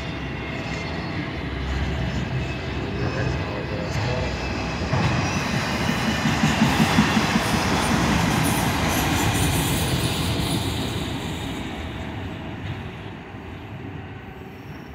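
Loaded autorack freight cars rolling past, their steel wheels rumbling and clicking over the rails. The sound swells around the middle, then fades as the end of the train moves away.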